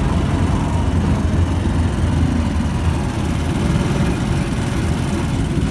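Steady low engine rumble of a moving tricycle, a motorcycle with a sidecar.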